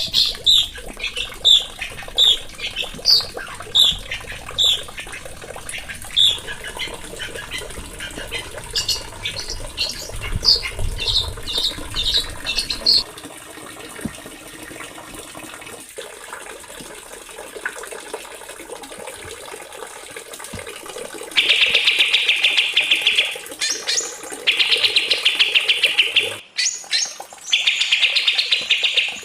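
Small songbirds singing: first a run of short, sharp, high whistled chirps, then after a quieter stretch, loud fast buzzing trills in long bursts with short breaks between them.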